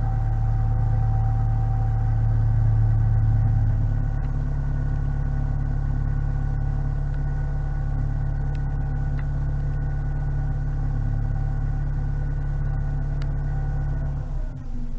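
Narrowboat's inboard engine running steadily under way, a little louder for the first few seconds; its note falls away as the revs drop just before the end.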